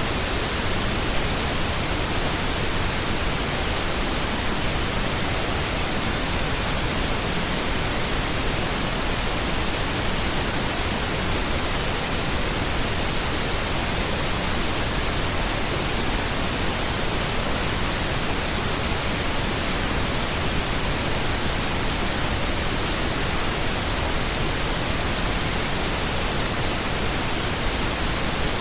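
Steady synthetic pink noise: an even, unchanging hiss across the whole range, heavier in the lows than white noise.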